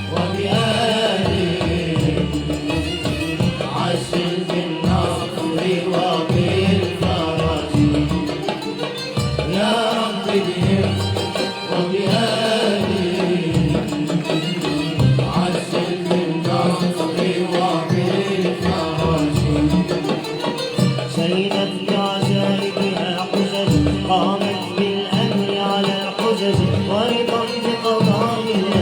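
Malouf ensemble playing Libyan traditional music: hand drums keep a steady beat under an ornamented, winding melodic line.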